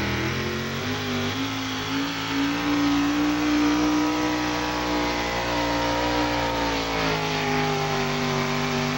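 Diesel pickup truck engine held at high revs under heavy load while pulling a sled in a truck pull, its pitch sagging slowly through the second half.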